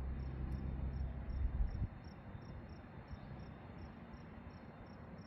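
A cricket chirping steadily, about three chirps a second. A low rumble under it stops abruptly about two seconds in.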